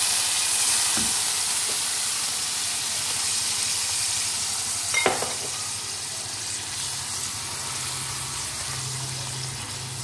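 Hot fried tomato-and-spice curry masala sizzling in a pan just after water has been poured in, with a wooden spatula stirring through it. The sizzle slowly dies down, and there is one sharp knock about halfway.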